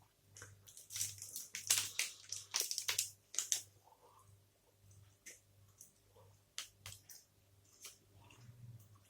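Close-up chewing of a sticky toffee protein bar: wet mouth clicks and smacks, busy for the first few seconds, then sparser.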